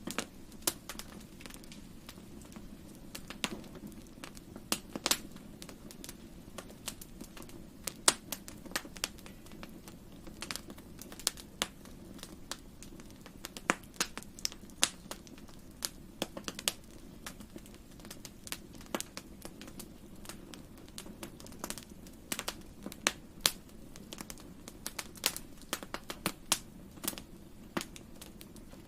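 Wood fire crackling in a fireplace: irregular sharp snaps and clicks, several a second at times, over a steady low rumble of the flames.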